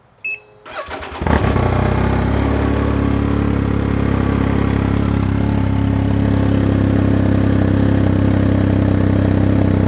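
2019 Can-Am Ryker Rally three-wheeler's three-cylinder engine on a cold start through an RLS Controlled Kaos aftermarket exhaust with the baffle in. A short electronic beep and a moment of cranking come first; the engine catches just over a second in and settles into a steady idle.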